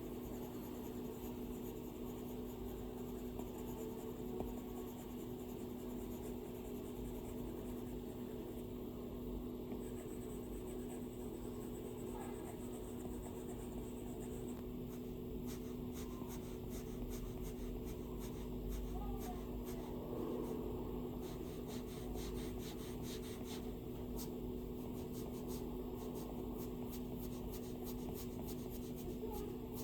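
Stylus drawing on an iPad's glass screen: soft scratching strokes, with quick runs of light taps and short strokes in the second half, over a steady low hum.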